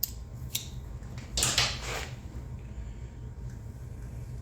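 Small hand tools being handled: a couple of light clicks, then a short scraping rattle about a second and a half in, over a steady low hum.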